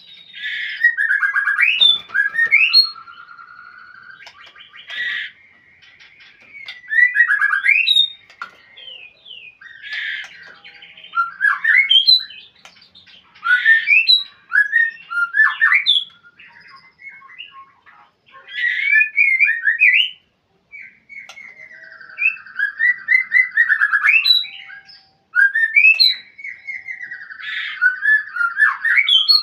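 White-rumped shama (murai batu) singing: a varied run of rich whistles, quick slurred notes and harsh chattering, delivered in bursts of a second or two with short pauses between, a challenge song aimed at a rival.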